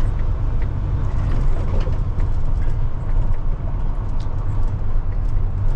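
Semi-truck tractor driving bobtail, heard from inside the cab: a steady low engine and road drone with scattered light rattles and clicks.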